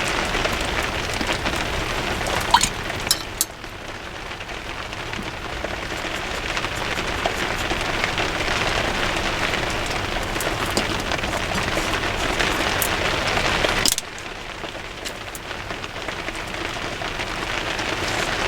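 Heavy rain, heard from inside a garden studio, a steady hiss that drops abruptly in level twice, about a third of the way in and again near the end, with a few faint clicks early on.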